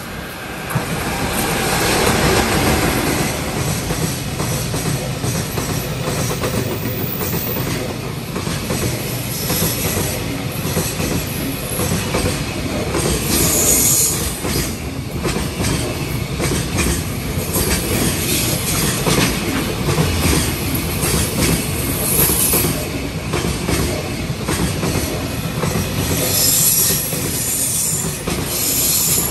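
Freight train passing at speed. The wagons' wheels clatter continuously over the rail joints, with a brief high squeal a couple of times. The sound swells about a second in and stays loud.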